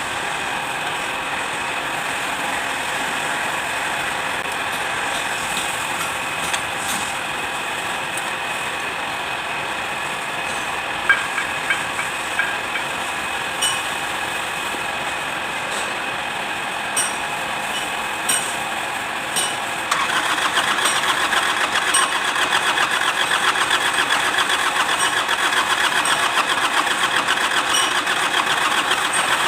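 Kubota D905 three-cylinder diesel running steadily, with a few sharp clicks in the middle; about twenty seconds in it gets louder and takes on a fast, even pulsing beat.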